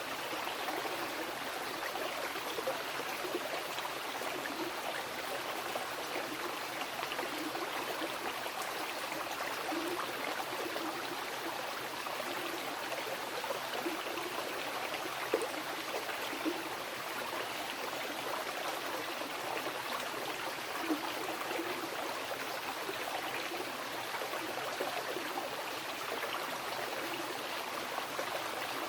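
Mountain river flowing over rocks: a steady rushing of water with small splashes and gurgles, a few slightly louder splashes here and there.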